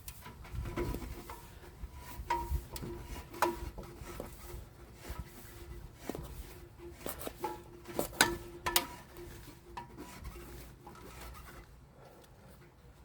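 Irregular metal-on-metal clinks and taps from hand tools working a stuck part loose, several of them followed by a brief ringing tone. The clinks thin out near the end.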